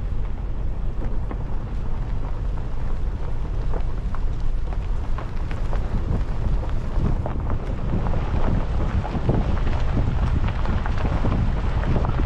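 Wind rumbling on the microphone, with crackling and rustling that grows busier from about four seconds in.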